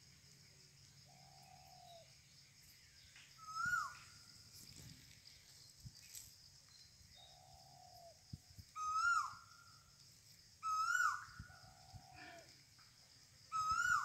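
Bird calls: four loud, short, pitched calls a couple of seconds apart, the first about four seconds in, alternating with three softer, lower and longer calls. A steady high-pitched whine runs underneath.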